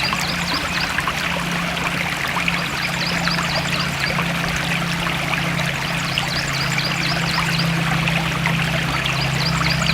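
Forest stream flowing steadily, an even rushing and trickling of water. A high chirping call, a quick run of short notes, comes in about every three seconds over it.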